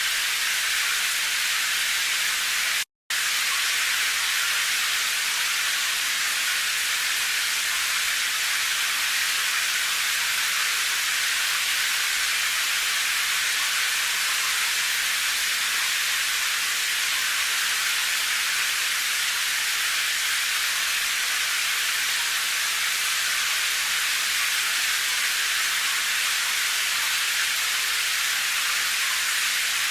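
Steady rain hiss with the sound weighted toward the high end, interrupted by a brief complete dropout about three seconds in.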